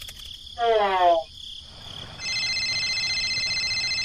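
Dubbed cartoon sound effects: a short rising whoop about half a second in, then a steady electronic phone tone from about two seconds in, over a background of crickets chirping.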